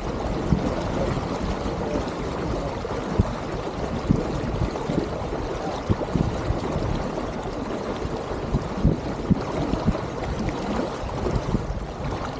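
Water gurgling and sloshing along the hull of an Elliott 7.4 sailboat under way: a steady rush of water noise broken by many small irregular splashes.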